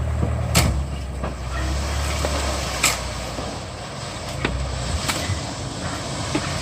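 Truck engine running low, with several sharp knocks or bangs at uneven intervals over it.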